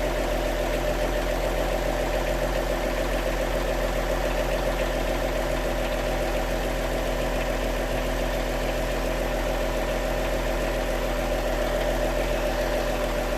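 2016 Lexus GS 350's 3.5-litre V6 idling steadily, its vacuum pump freshly replaced.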